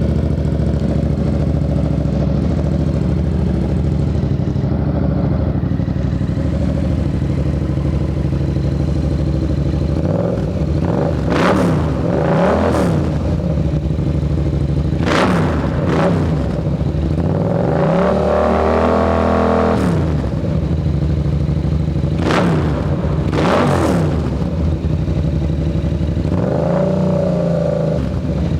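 Yamaha MT-07's parallel-twin engine breathing through an HD Black Widow exhaust with no baffle, idling steadily for about ten seconds. It is then revved in a series of quick throttle blips, with one longer rev held for a second or two, dropping back to idle between each.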